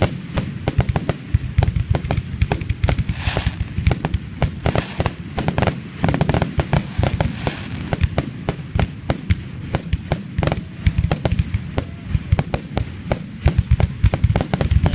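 Aerial fireworks going off in a rapid, continuous barrage, many loud bangs a second with no let-up.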